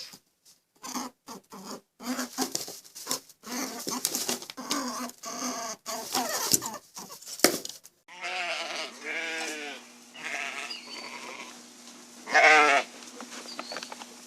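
Goats bleating: a quick run of short overlapping calls, then, after a cut about eight seconds in, a few long quavering bleats, the loudest one near the end.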